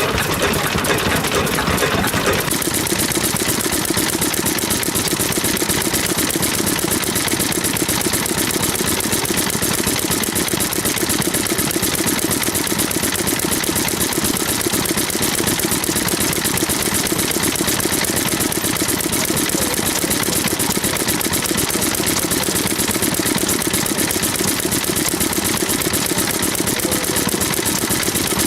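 Vintage stationary engine running steadily, with fast, even firing beats; the sound shifts abruptly about two and a half seconds in and then holds steady.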